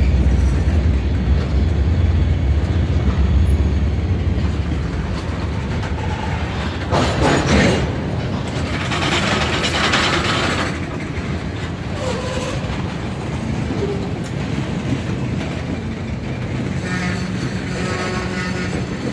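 Freight train of tank cars and boxcars rolling past at close range: a steady low rumble of steel wheels on the rails, with two louder bursts of noise about seven and nine seconds in, and the rumble easing a little after about ten seconds.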